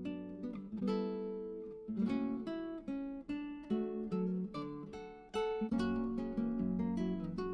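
Background music: acoustic guitar playing plucked notes and strummed chords that ring and die away.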